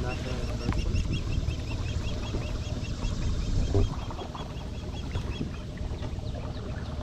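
A bird calling a rapid series of high chirps, about five a second, fading out after about five seconds, over a low steady rumble.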